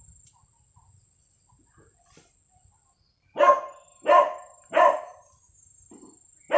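A dog barking three times in quick succession, about two-thirds of a second apart, starting about halfway through.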